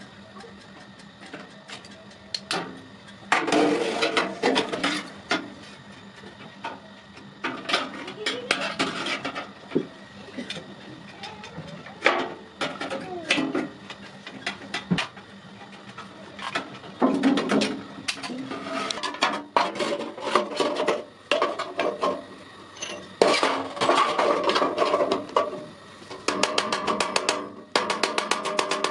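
Hand work on iron: irregular metal knocks and clanks, with stretches of rapid scraping or rasping lasting a second or two.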